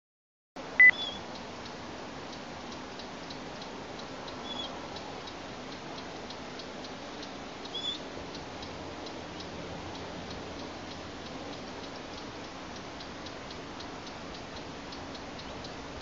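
A brief loud high beep just under a second in, then a faint, even ticking about three times a second over a steady hiss, with three short high bird chirps spread through it.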